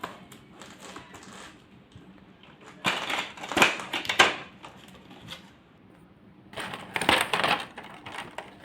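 Packaging of a toy train set being torn open and handled, crinkling and rustling, with two louder spells of crinkling.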